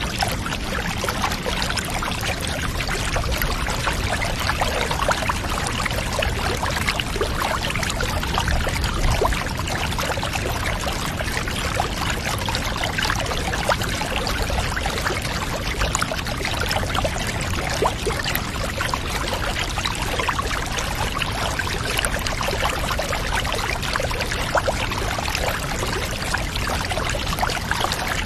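Steady pouring, running water with fine splashing, unchanging throughout.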